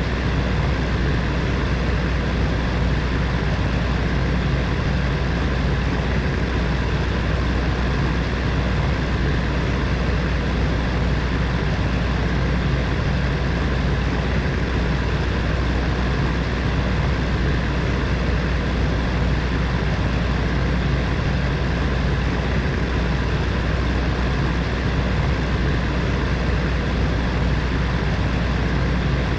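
Electric heater fan running steadily: a constant low hum with an even whoosh of moving air.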